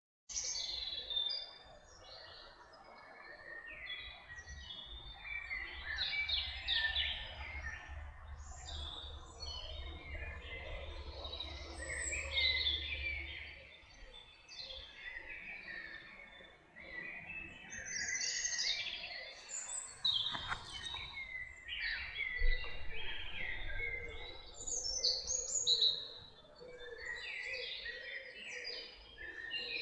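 A chorus of several woodland songbirds singing and calling over one another, dense chirps, trills and warbles, starting suddenly. A low rumble sits underneath for about the first half.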